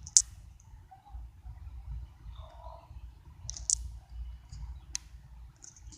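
A few short, sharp clicks: a loud one right at the start, one about three and a half seconds in and a fainter one near five seconds, over a steady low rumble.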